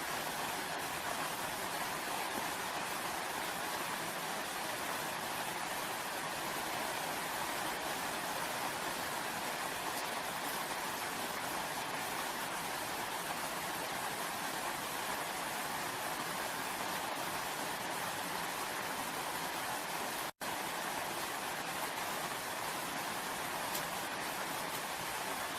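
Steady, even rain falling, with no changes in intensity. The sound drops out for an instant about twenty seconds in.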